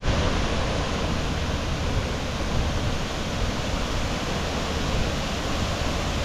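A waterfall rushing: a loud, steady wash of falling water with no letup.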